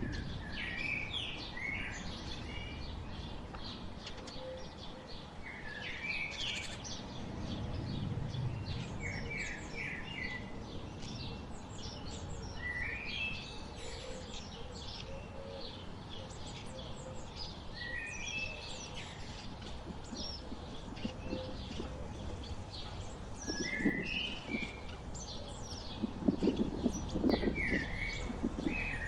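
Several songbirds chirping and calling in short repeated phrases every few seconds over a steady low background hum. Near the end, a few louder crackling, rustling sounds come in under the birdsong.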